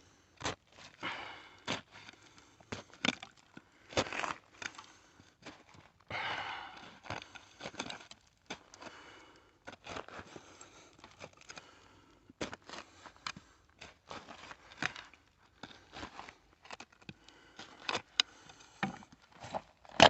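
Digging by hand through the soil and broken glass of an old bottle dump: irregular scraping and crunching with many sharp clicks and knocks.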